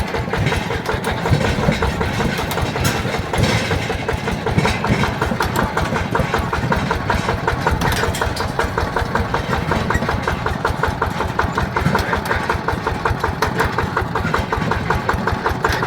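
Yanmar TF120 DI single-cylinder diesel engine of a mini tractor running steadily, with a rapid, even chug.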